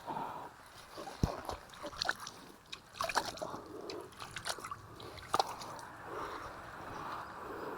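Water sloshing and splashing lightly at close range, with scattered small clicks and knocks.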